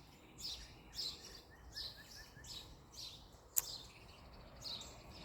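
Wild birds singing: one repeats a short call about twice a second, over a faint run of quick, thin chirps. A single sharp click comes about three and a half seconds in.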